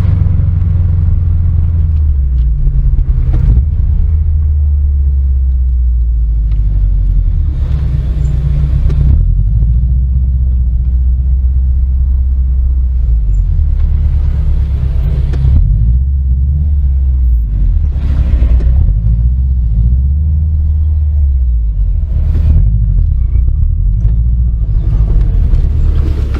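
Car engine running with a deep, loud rumble, its pitch shifting up and down in steps as the revs change.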